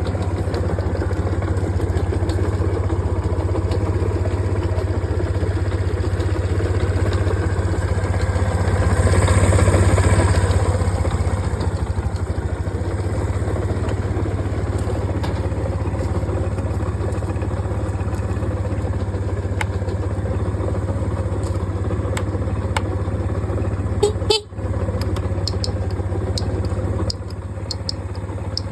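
Suzuki Let's 4 scooter's small four-stroke engine idling steadily, rising briefly in revs about nine seconds in. Near the end, a few sharp clicks and a brief dip in the engine sound.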